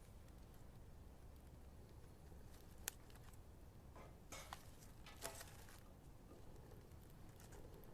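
Wood fire crackling in a fireplace, faint, with a few sharp pops: the sharpest about three seconds in, and more crackles around four and five seconds in.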